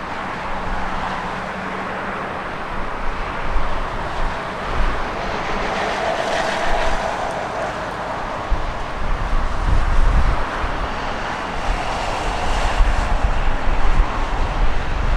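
Boeing 777 jet engines rushing as the airliner comes in to land, swelling to a peak about halfway through. Gusts of strong crosswind buffet the microphone with irregular low thumps.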